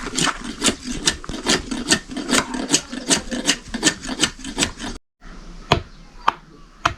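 Rhythmic rasping or scraping strokes, about four or five a second, break off suddenly. Sharp, separate chopping blows follow, about two a second.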